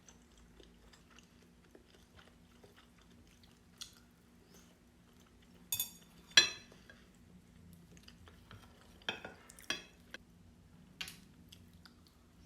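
Eating at a table: a few sharp clinks of utensils against a dish, the loudest about halfway through with a brief ring, with quiet chewing between them.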